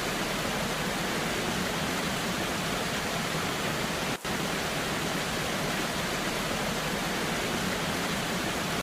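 Waterfall in the rain: a steady, dense rush of falling water, with a momentary dropout about four seconds in.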